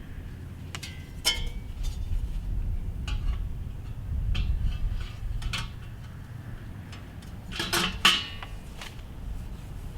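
Metal grill parts clinking and knocking together as they are handled during assembly of a Weber charcoal kettle grill: scattered sharp clinks, the loudest cluster about eight seconds in, over a low steady rumble.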